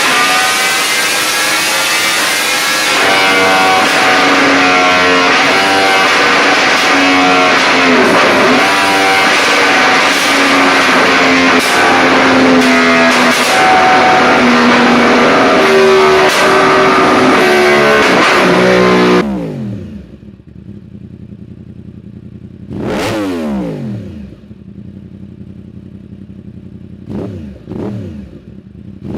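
Yamaha YZF-R1M's crossplane inline-four running hard at high revs, its pitch stepping up and down. After about nineteen seconds the sound drops to a quieter idle, with one sharp throttle blip a few seconds later and two smaller blips near the end.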